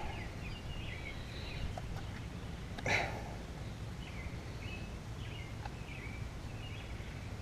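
Faint bird chirps over a steady low background rumble, with one short knock about three seconds in.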